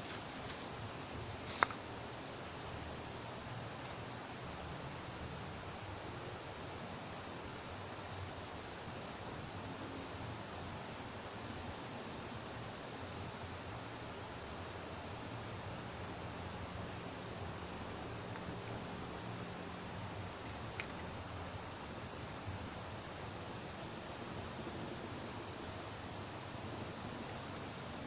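Steady high-pitched insect trill over an even background hiss, with one sharp click about a second and a half in.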